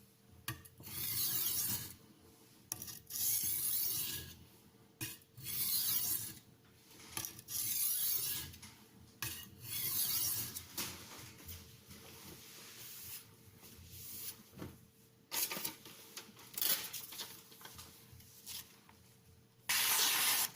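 Steel knife edge scraping along a sharpening stone in repeated strokes, about one every two seconds, with the later strokes fainter and shorter. The sound tells the sharpener that the burr is still present but minimal.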